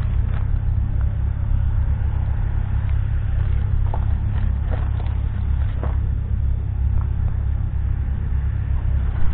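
2015 Scania R520's 16.4-litre V8 diesel engine idling steadily, a deep, even rumble with a few faint clicks over it.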